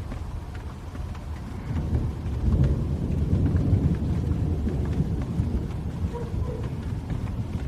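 Rolling thunder: a deep rumble swells about two seconds in, is loudest for a couple of seconds, then slowly fades, with steady rain and scattered drops ticking throughout.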